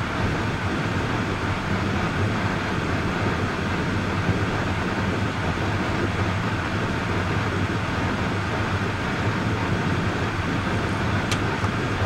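Steady rumble and hiss of a car driving, with a low hum. A single sharp click comes near the end.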